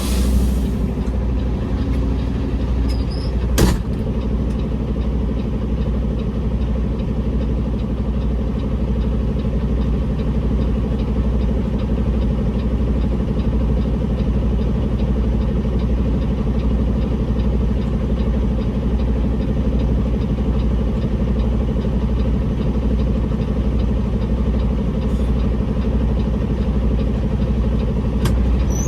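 Peterbilt semi truck's diesel engine idling steadily, with a single sharp knock about three and a half seconds in.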